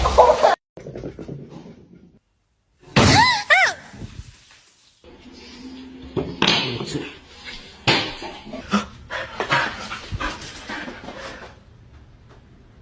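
A dog gives two short, high, rising-and-falling yelps about three seconds in. Later come a few sharp knocks among other sounds.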